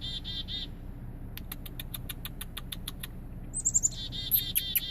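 A bird giving repeated begging calls for food: a quick run of chirps at the start, a string of very high thin notes in the middle, and rapid chirps again near the end.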